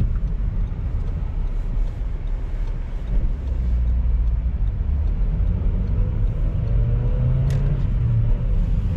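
A car driving on a road: a steady low rumble of engine and tyres. A faint whine rises and falls near the end, and there is one short click about seven and a half seconds in.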